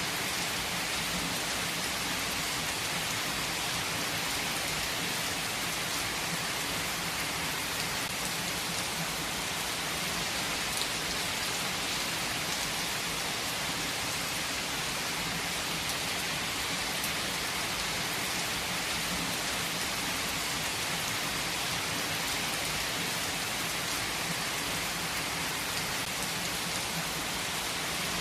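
Heavy rain falling steadily, a dense even hiss of many drops hitting surfaces.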